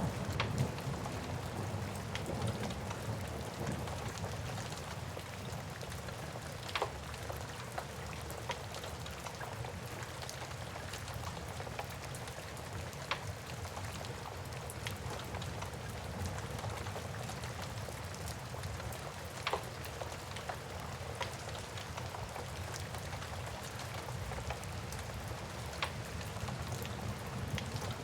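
Steady rain with a low rumble underneath, mixed with a wood fire crackling: fine scattered crackles and a few louder sharp pops spaced several seconds apart.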